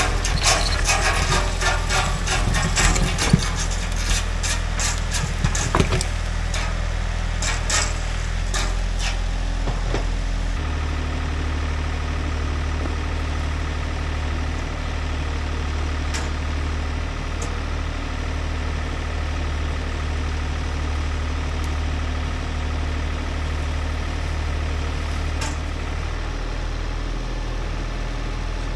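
Ford 555 backhoe's engine running steadily under load, with a rapid series of sharp clanks and knocks over the first ten seconds, typical of a chained boulder being dragged. About ten seconds in, the engine note shifts and settles into a steady run, with a few single knocks after that.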